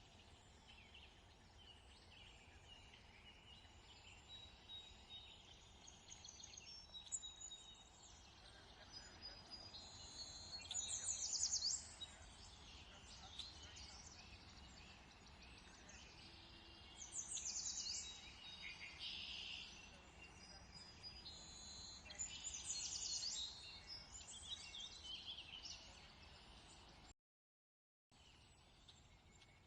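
Songbirds chirping and trilling, in quick high phrases that come and go, over a faint steady background hum. The sound drops out completely for about a second near the end.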